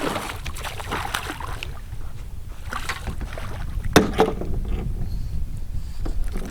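Low, steady wind and water noise around a small fishing boat, with a sharp knock about four seconds in.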